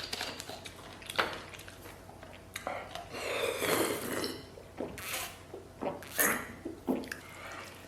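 Someone drinking water between mouthfuls of spicy food: a few short clicks and knocks of a cup or dish against the table, and a longer breathy stretch about three seconds in.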